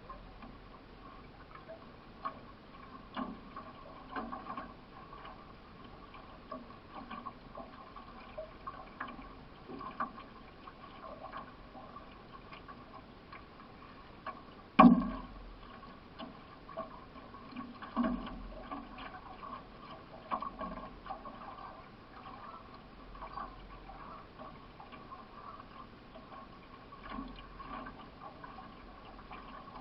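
Paddle strokes in the water from a solo racing canoe, a splash about once a second over a low wash of water. One sharp knock about halfway through is louder than the rest.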